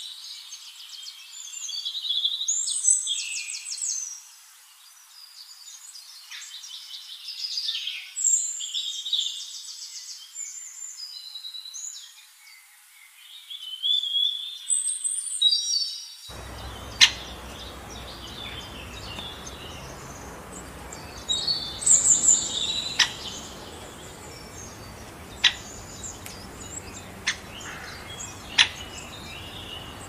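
Birds chirping and calling, many in quick trilling runs. A little past halfway the background changes to a steady hiss, over which come a few sharp single chirps and a short flurry of calls.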